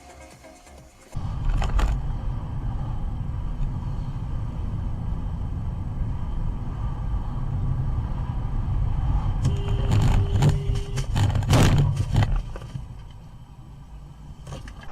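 Car road and engine rumble heard from inside the cabin, starting abruptly about a second in. Several sharp knocks come in a cluster about ten to twelve seconds in, with a brief steady tone among them, before the rumble drops away.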